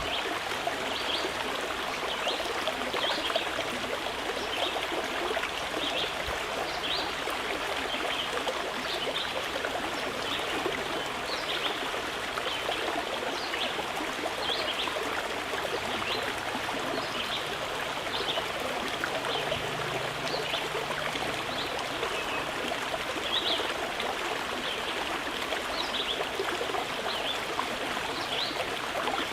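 Mountain river flowing steadily, with short high bird chirps dotted through it.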